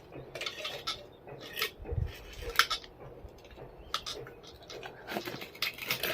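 Irregular light metal clanks and rattles from the BBQ grill's metal parts being handled after one of its legs broke off, with a dull thump about two seconds in.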